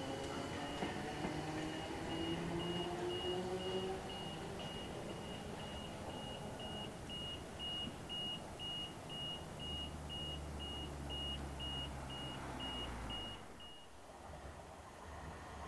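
An electric train's traction motors whining up in pitch as it pulls away, fading over the first few seconds. Under it, a high electronic beeping at about two beeps a second runs on until it stops near the end.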